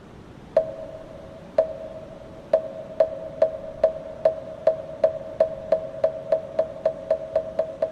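Moktak, the Buddhist wooden fish, struck with a mallet: hollow wooden knocks, each with a short ringing pitch. A few slow strikes about a second apart quicken steadily to about three a second.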